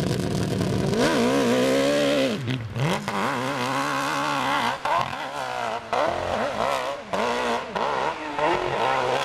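Hill-climb motorcycle engine running steadily, then revving hard about a second in. Its pitch rises and falls over and over, with several brief cuts as the throttle is chopped and reopened on the climb.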